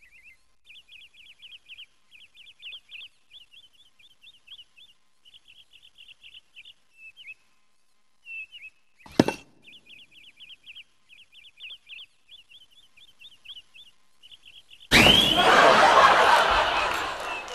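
Small birds chirping in quick runs of short, high notes, with a single sharp knock about nine seconds in. Near the end a loud rushing noise, opening with a brief rising whistle, starts suddenly and fades over a couple of seconds.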